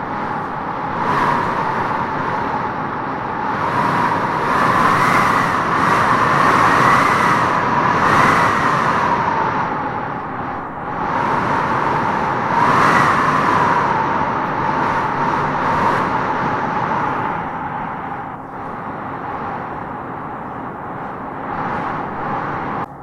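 Wind howling in gusts through trees, a hollow whistle that wavers up and down over a steady rush. It swells loudest about a third of the way in and again just past halfway, then eases.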